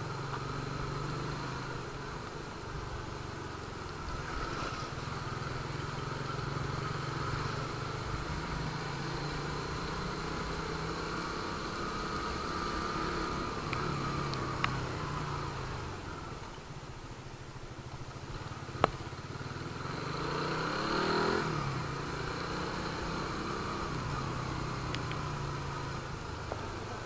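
Suzuki Raider 150 Fi's single-cylinder four-stroke engine running at low road speed, its note rising and falling a few times. There is a sharp click past the middle.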